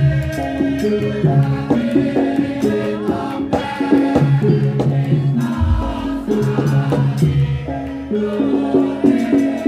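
Javanese gending for lengger dance, played by a gamelan ensemble of tuned struck instruments in a steady flow of notes, with a deep low stroke a little past the middle.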